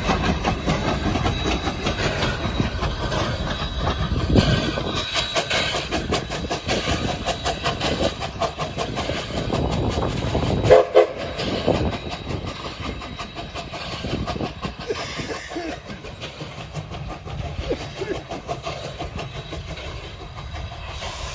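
A train passing close by, with a quick, regular run of wheel clicks over the rail joints. A short pitched blast of its horn or whistle sounds about eleven seconds in, and then the rumble fades.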